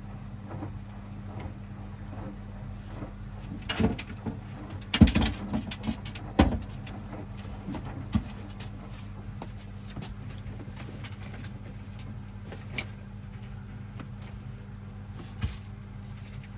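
Hoover DXOA610AHFN-80 front-loading washing machine running during its heated wash, a steady motor hum with several sharp knocks around four to six and a half seconds in and single clicks later on.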